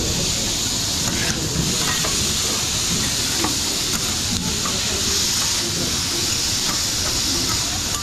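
Food frying with a steady sizzling hiss, with a few faint clicks over it.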